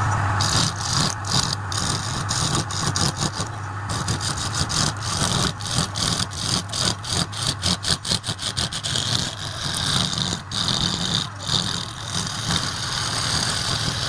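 Wood lathe motor running with a steady hum while a turning tool cuts into the spinning wood, a rough scraping hiss broken by many rapid, irregular ticks of the tool catching on the workpiece.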